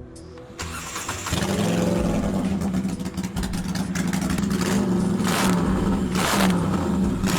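Custom cafe racer motorcycle engine starting about half a second in, then running steadily, with three short throttle blips in the second half.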